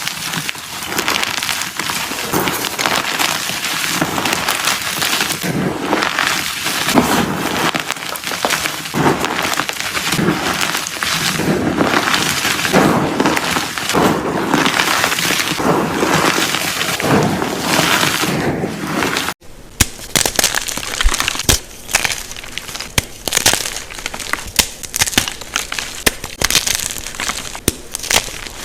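Blocks of unpolished gym chalk being crushed, a continuous crunching and crumbling with swells about once a second. About two-thirds through it cuts abruptly to another crush with sharper, crackly crunches.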